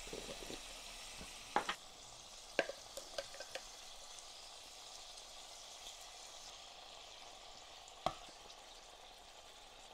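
Tofu and garlic frying in an electric hot pot with a faint, steady sizzle, broken by a few sharp clicks of a utensil against the pot as it is stirred, the loudest about eight seconds in.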